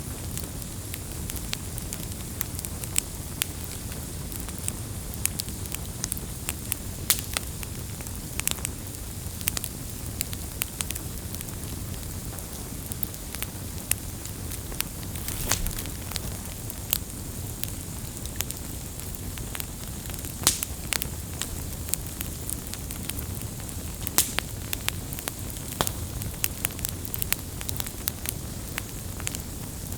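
Wood campfire burning, with a steady low rush of flames and frequent sharp crackles and pops scattered irregularly through it.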